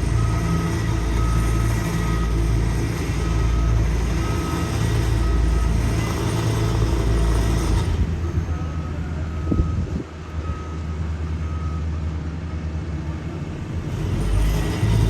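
Heavy road-paving equipment running with a steady, loud diesel engine drone, while a reversing alarm beeps over it and stops about two-thirds of the way through.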